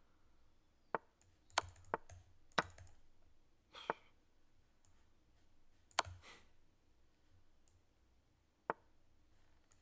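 Sharp, scattered clicks, about seven of them, as moves are played in a fast online chess game on a computer.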